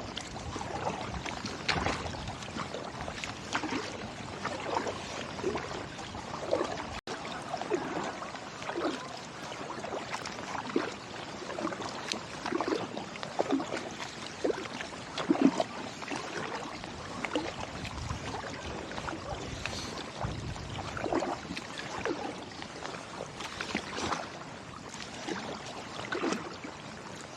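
Kayak paddle strokes in river water: repeated irregular splashes of the blades dipping in and water dripping and trickling off them.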